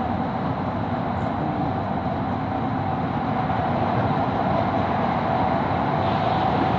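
Doha Metro train running at steady speed: a continuous rumble with a faint, even hum running through it.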